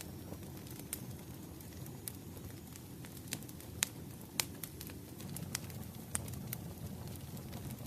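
Firewood burning: a low steady rumble of flames with sharp, irregular crackles and pops, the loudest two close together about four seconds in.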